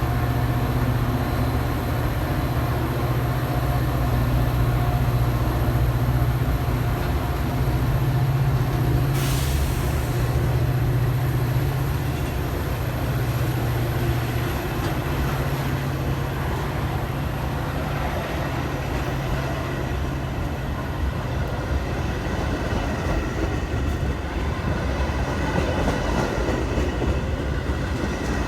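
Metra diesel-hauled commuter train running at the station, a steady low rumble of engine and cars. There is one brief sharp hiss about nine seconds in, and thin high tones grow stronger near the end.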